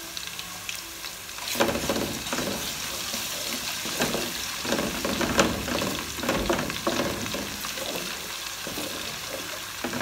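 Onions sizzling in hot oil in a metal pot, with a wooden spoon scraping and knocking irregularly against the pot from about a second and a half in as ginger and garlic paste is stirred in.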